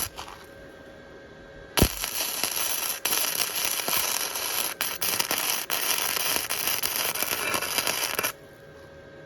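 Wire-feed (MIG) welder arc crackling as a bead is laid on the thin steel frame of a dirt bike. It starts with a sharp click about two seconds in, runs for about six seconds with a short break near the three-second mark, and cuts off suddenly near the end.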